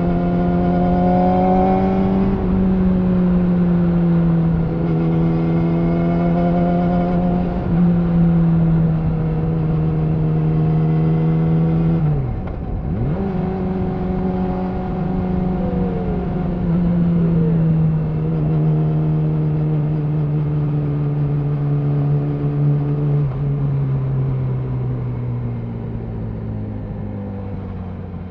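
Yamaha R6 inline-four running through an Akrapovic slip-on exhaust while riding, holding steady revs with small steps in pitch. About twelve seconds in the revs dip sharply and climb back. Over the last few seconds the engine note falls and fades as the bike slows.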